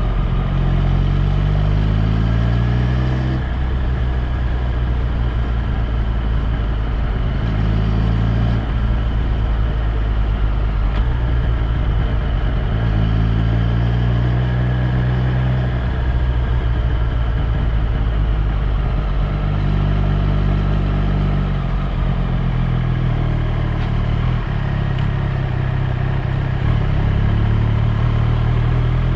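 Triumph Street Triple 765 R's three-cylinder engine on the move, its pitch climbing under acceleration and dropping at a gear change about three seconds in, then rising and easing off again with the road speed.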